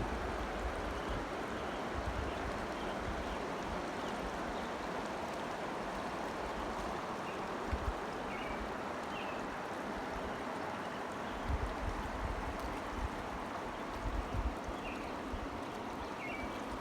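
Steady rushing of flowing water, with occasional low rumbles and a few short, faint high chirps.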